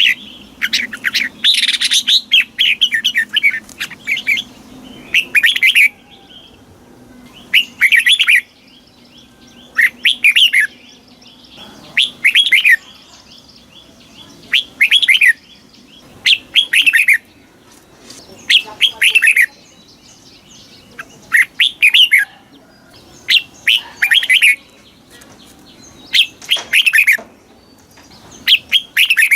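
Red-whiskered bulbul singing: short phrases of quick rising and falling notes, repeated about every two seconds.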